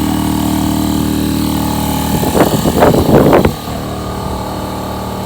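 A vehicle engine running steadily, with a louder rough burst about two seconds in that lasts over a second; after it the engine sound is quieter.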